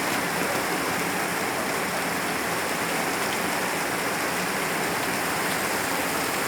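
Tropical rain falling: a steady, even hiss of rain that does not let up.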